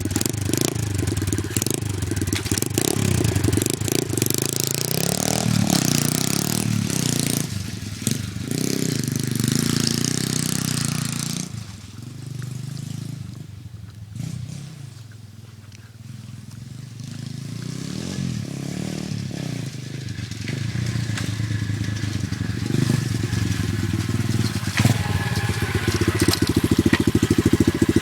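Giovanni 125cc dirt bike's single-cylinder engine revving up and down as it is ridden off. It fades to its quietest about halfway through, then grows louder again as it comes back.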